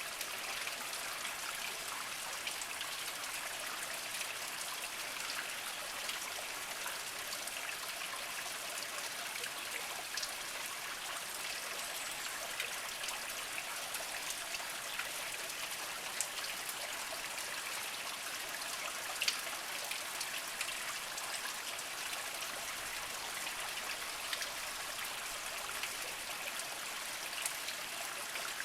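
A small spring trickling over mossy rocks: a steady light splashing, dotted with individual drips, a couple of them louder.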